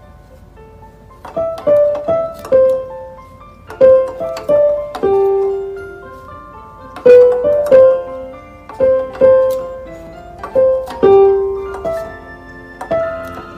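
Background piano music: a melody of single struck notes in short phrases, with brief pauses between them.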